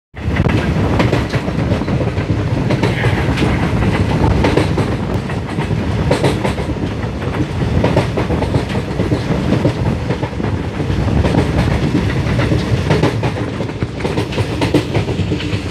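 Passenger train running at speed, heard from aboard a coach: a loud, steady rumble of steel wheels on the rails, with repeated clacks as the wheels pass over rail joints.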